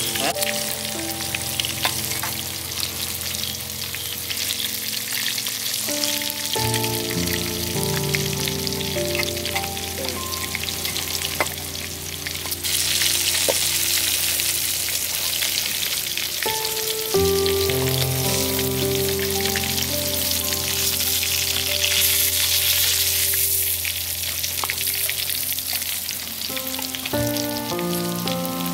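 Pork ribs deep-frying in hot oil in a steel wok: a dense, steady crackling sizzle, with the odd click of a ladle against the pan.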